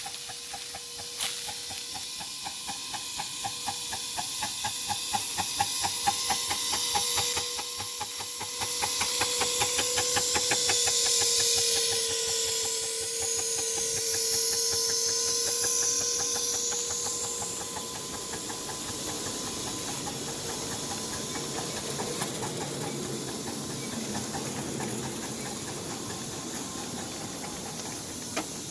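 Live-steam miniature steam locomotive working, its exhaust chuffing fast and evenly with a hiss of steam and a steady tone alongside. The chuffing dies away about two-thirds of the way through, leaving a quieter steady hiss.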